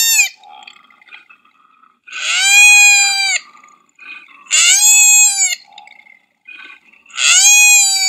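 Koala distress calls: long, high wailing "uaai" cries, each about a second long and falling off at its end, repeating about every two and a half seconds. One cry ends just after the start, and three more follow.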